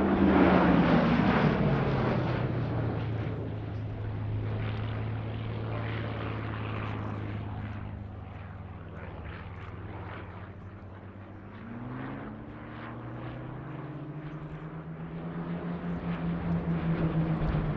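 Hawker Hurricanes' Rolls-Royce Merlin V12 piston engines on a display pass. The sound is loudest at first, falling in pitch as the aircraft go by, then runs steadily and fades. About twelve seconds in the pitch rises, and it grows louder again near the end.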